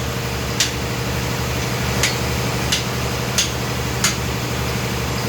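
Five short, sharp light clicks, spaced unevenly about a second apart, over a steady low machine hum.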